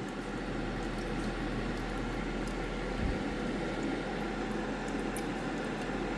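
Amazon Basics ceramic space heater running on its fan-only setting: a steady rush of air with a low hum. There is a faint low bump about three seconds in.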